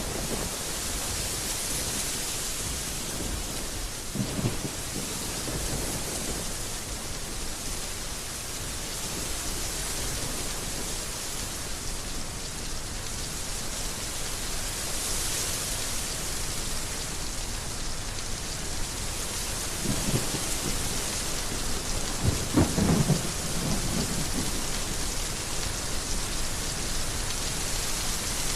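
Heavy rain falling in a steady hiss, with a few low rolls of thunder; the strongest rumble comes a little past two-thirds of the way through.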